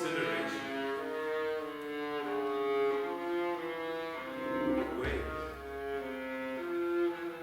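Bowed strings of a small improvising ensemble (violins and violas) playing held notes that move from pitch to pitch every second or so. About five seconds in a single low thump comes in, with a short deep rumble under the strings.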